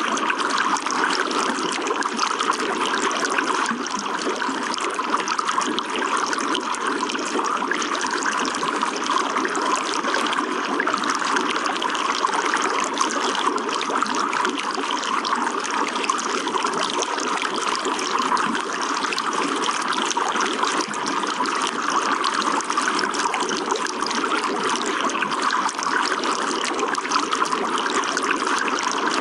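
Running water trickling and splashing in a steady, unbroken flow.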